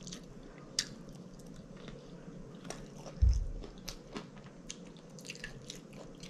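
Close-up mouth sounds of someone chewing a forkful of cheese-and-sour-cream-topped tater tots: wet chewing with many small lip-smacking clicks. A single low thump comes about three seconds in.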